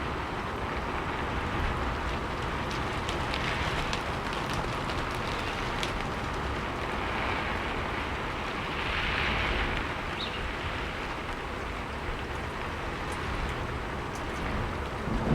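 Steady rainfall with scattered separate drops ticking on a surface, swelling briefly about nine seconds in. A low rumble of thunder begins at the very end.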